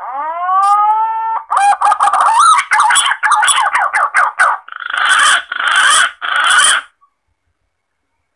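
Green pigeon (punai) calls used as a hunting lure: a rising whistle, then a run of quick, wavering whistled notes, ending in three harsher bursts. The calls stop about seven seconds in.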